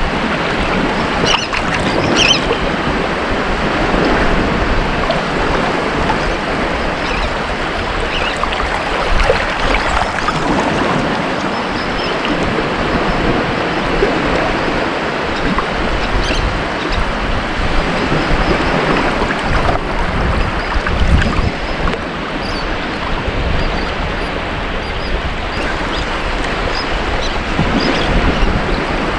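Ocean waves breaking and washing up a beach in a steady surf, the wash swelling and easing every few seconds with small splashes and fizz near the top.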